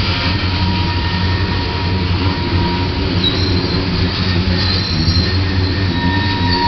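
Freight train of tank cars rolling past with a steady heavy rumble of wheels on rail, over which the wheels give thin, steady high-pitched squeals; one squeal tone fades midway and comes back near the end.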